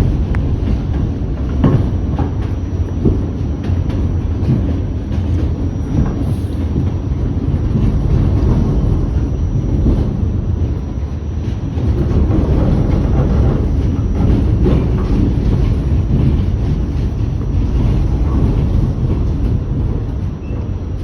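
New York City subway Q train running on its tracks: a steady low rumble with scattered wheel clicks over the rail joints.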